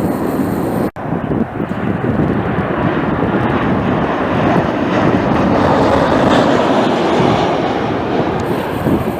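Jet airliner's engines, a loud steady noise that builds toward the middle and eases near the end, with wind on the microphone. The sound drops out for an instant about a second in.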